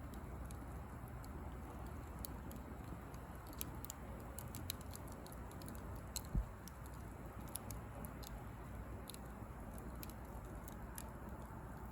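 Small bonfire of dry pruned branches crackling, with scattered sharp pops over a faint low rush of burning. One dull low thump a little past halfway.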